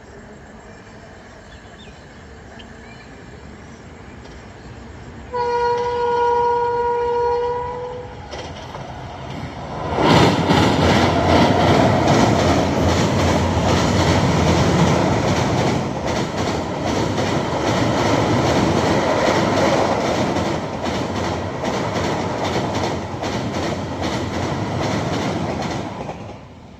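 A WAP-7 electric locomotive's horn sounds one long blast of about two and a half seconds. A few seconds later the express train passes close by for about sixteen seconds, its wheels clattering rhythmically over the rail joints, and the noise falls away sharply near the end as the last coach goes past.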